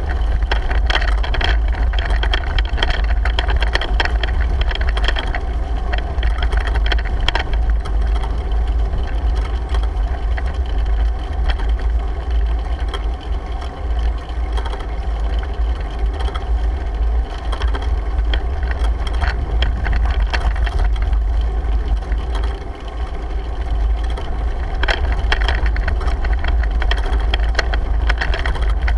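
Wind buffeting the microphone of a GoPro mounted on a moving bicycle: a steady low rumble, with many scattered rattling clicks from the bike.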